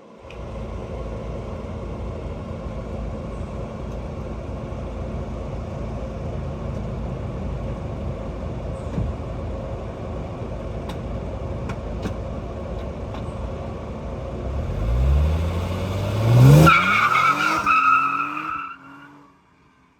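Car engine running steadily, then revving up with a rising note about fifteen seconds in. A loud, high, wavering squeal follows, and the sound cuts off sharply just before the end.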